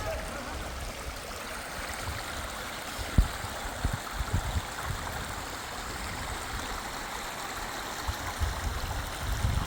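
Fast river water rushing steadily, with irregular low thumps; the sharpest comes about three seconds in.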